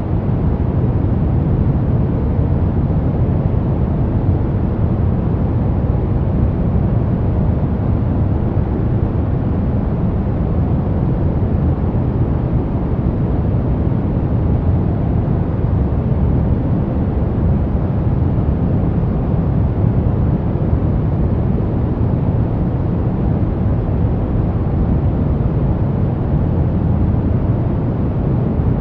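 Steady pink noise, an even, unbroken hiss weighted toward the low end.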